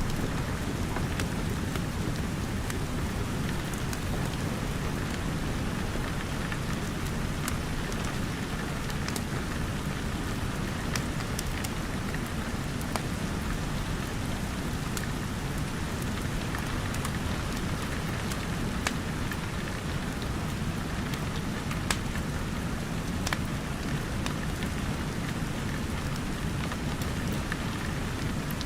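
Steady rain pattering, mixed with a crackling wood fire that gives occasional sharp pops.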